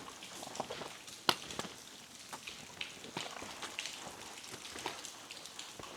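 Water drops from the waterfall's spray pattering and ticking irregularly, over a faint steady hiss of falling water.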